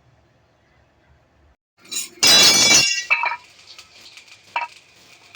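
A loud metallic clatter about two seconds in, lasting under a second with a ringing edge, followed by a faint hiss and a single sharp clink near the end.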